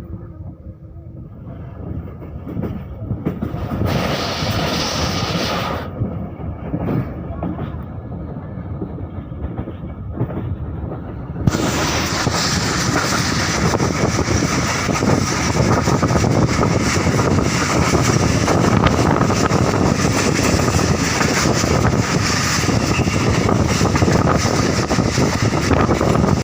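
Passenger train running on the rails, a steady rumble and rail noise. About eleven seconds in it becomes louder and brighter.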